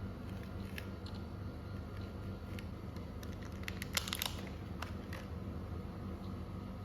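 Packaging being handled: scattered light clicks and a brief crinkling rustle about four seconds in, over a steady low hum.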